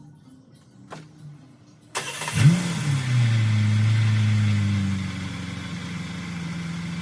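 Cadillac CTS-V's V8 engine starting up after an oil change, just refilled with fresh oil. It catches about two seconds in with a brief flare of revs, settles to a fast idle, then drops to a lower steady idle about five seconds in.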